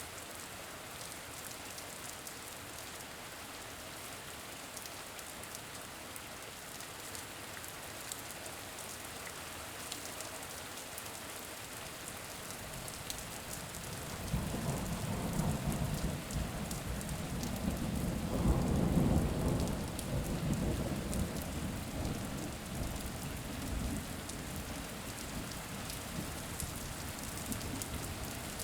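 Steady rain falling, with a long roll of thunder that builds about halfway through, is loudest a few seconds later, and then rumbles away.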